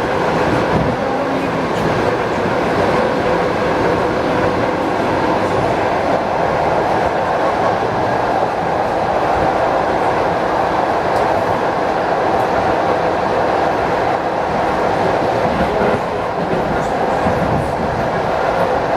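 ED4M electric multiple unit running between stations: steady rumble of wheels on the rails, with a steady hum running through it.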